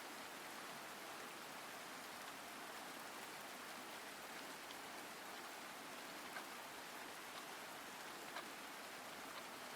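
Steady rain falling: an even, soft hiss of rain with a few faint drop ticks.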